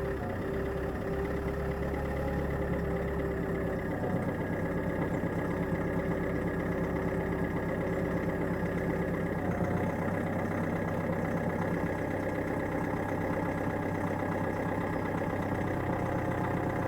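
Ford Kuga's 2.0 TDCi four-cylinder turbodiesel idling steadily right after a cold start at about −13 °C.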